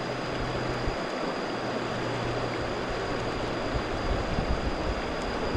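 Steady rushing of flowing water, with wind rumbling on the microphone toward the end.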